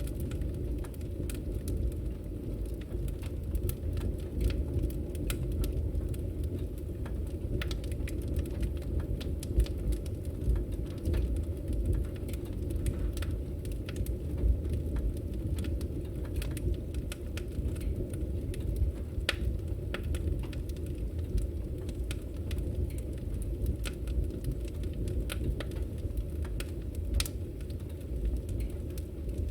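Wood fire burning: a steady low rumble of the flames with irregular sharp crackles and pops of burning wood.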